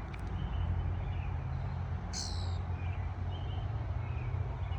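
A black bird calling: one harsh high call about two seconds in, with short, faint chirps repeating about twice a second around it. A steady low hum runs underneath.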